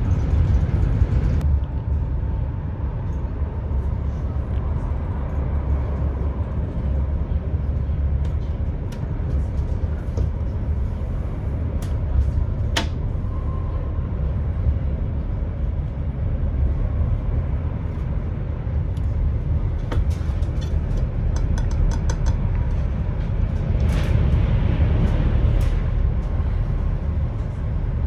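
Steady low rumble of an ETR600 high-speed tilting train in motion, with a few sharp clicks and ticks scattered through it.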